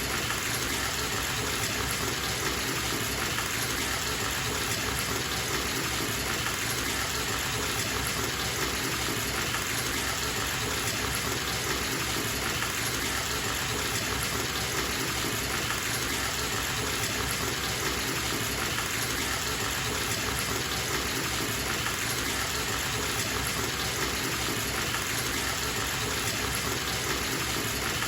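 Water running steadily from a bathtub tap into the tub as it fills, a constant even gushing splash with no changes.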